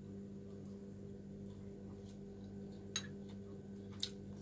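Quiet steady low hum, with two light clicks about three and four seconds in.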